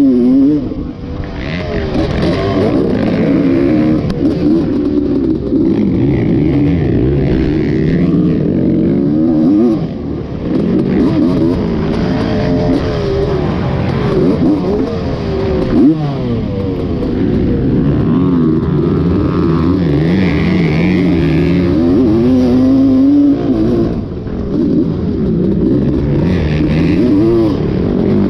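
Dirt bike engine revving up and down as it is ridden, its pitch climbing and dropping again and again, with brief dips where the throttle is let off.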